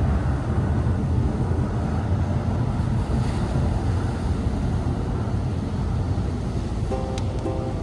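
Steady rumbling wind noise on the microphone, with sea surf beneath it. Near the end, a plucked ukulele tune fades in.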